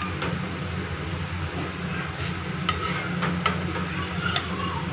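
Aluvadi pieces sizzling in hot oil in a frying pan, with a spatula scraping and clicking against the pan a few times in the second half as they are turned and lifted out. A steady low hum runs underneath.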